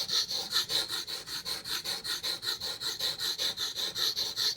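Blade of a large Zero Tolerance (ZT) knife stroked back and forth on a wet King whetstone, working up a slurry. It makes an even, rapid scraping at about four strokes a second.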